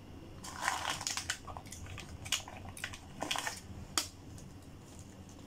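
Eating sounds from biting into and chewing a breaded fried chicken nugget: a run of short, crunchy, wet crackles and clicks that stops about four seconds in.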